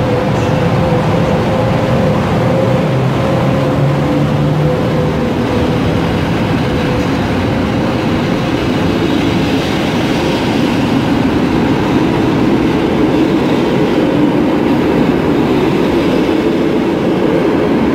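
An Intercity train hauled by a PKP EP09 electric locomotive rolls slowly past on the platform track, a loud continuous rumble of wheels on rail. A steady whine from the locomotive fades over the first several seconds as the passenger coaches follow.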